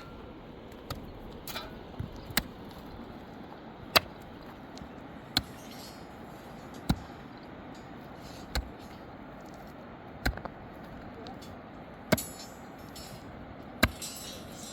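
Sharp knocks, one about every second and a half, over a steady background hiss.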